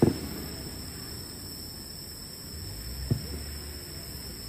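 Aerial firework shells bursting as low booms, each with a short rumbling tail. The first, right at the start, is the louder one, and a smaller one follows about three seconds later.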